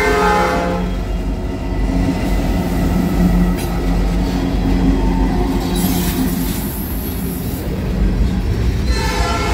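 Diesel freight locomotives passing close by: the horn sounds and cuts off under a second in, leaving the deep engine rumble and the rolling noise of wheels on rail, with a brief higher hiss partway through. The horn sounds again near the end.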